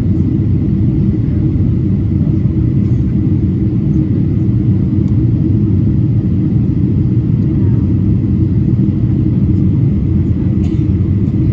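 Steady low rumble of a Boeing 777-300ER airliner's engines and airflow, even in pitch and loudness throughout.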